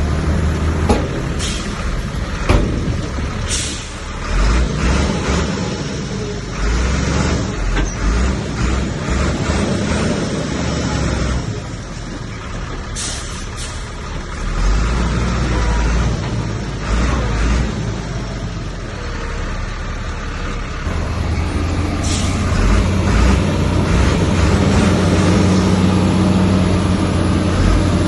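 Heavy diesel engines of a bulldozer and dump trucks working, with a few short sharp sounds over the steady engine noise. The engine sound grows louder about three-quarters of the way through.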